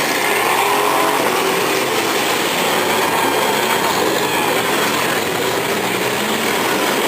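Demolition derby cars' engines running and revving together in a steady loud din, their pitch rising and falling.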